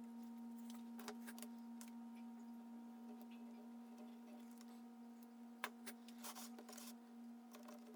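Faint steady electrical hum, with scattered light clicks and taps of small parts being handled during greasing work.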